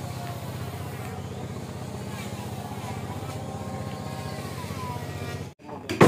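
A small engine running steadily with a buzzing drone. It stops abruptly about five and a half seconds in, followed by a sharp knock.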